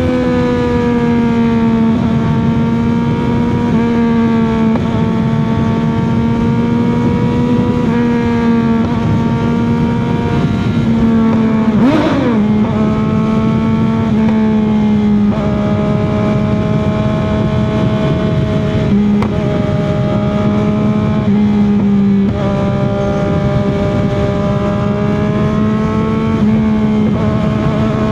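CFMOTO 675's inline-three engine and exhaust running at steady highway cruising revs, its pitch holding nearly level with small wavers. About twelve seconds in, the pitch briefly dips and comes back up.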